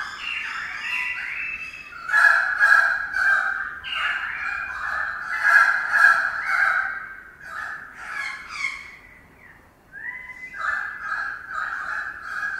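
Several birds calling loudly and repeatedly, their calls overlapping, with a short lull about ten seconds in before the calling resumes.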